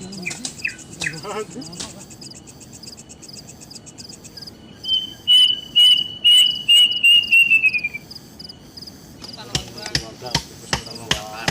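Insects trilling in fast, even high pulses. A louder run of about eight high chirps comes in the middle and slides down in pitch at the end, and a quick series of sharp knocks comes near the end.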